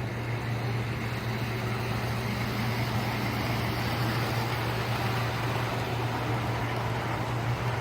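O scale model diesel train running on the layout: a steady low hum over an even rolling noise.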